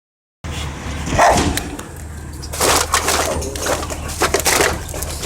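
Dog barking several times in short bursts over the steady low hum of an idling Autocar ACX refuse truck.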